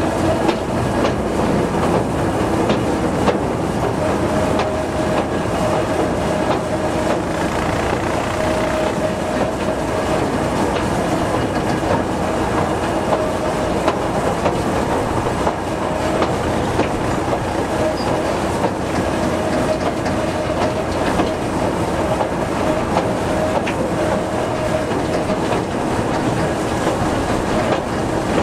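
Narrow-gauge light railway train running steadily, heard from an open-sided carriage hauled by a Simplex diesel locomotive: a continuous noise of wheels on track, engine and passing air, with faint scattered clicks.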